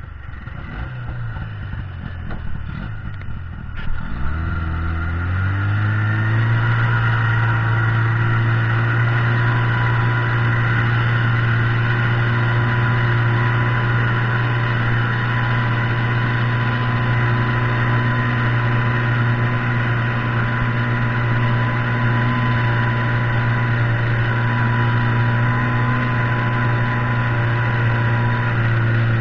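Buran snowmobile's two-stroke engine, uneven at first, speeding up in a rising sweep about four seconds in, then running at a steady pitch.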